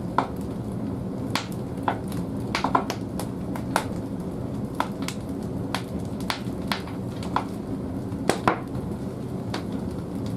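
Firewood burning in the firebox of an old wood-fired bathhouse boiler. A steady low rumble runs underneath, with a dozen or so irregular sharp crackles and pops from the burning wood.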